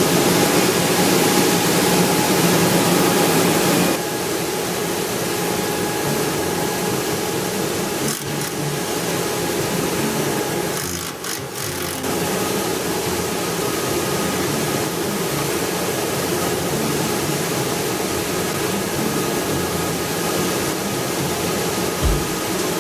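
Rice huller (husking machine) running with a steady mechanical whirr and rattle. It drops a little in level about four seconds in.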